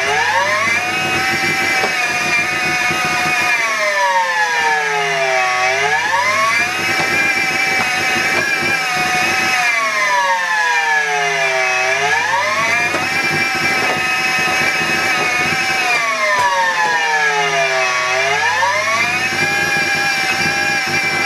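Miele Complete C3 vacuum cleaner running, its motor whine repeatedly dropping in pitch and climbing back about every six seconds, a surging sound like a sawmill. The owner takes it for a broken machine.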